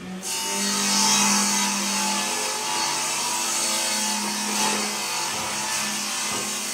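Electric woodworking power tool starting abruptly and running steadily, its motor humming under the noise of the cut into wood.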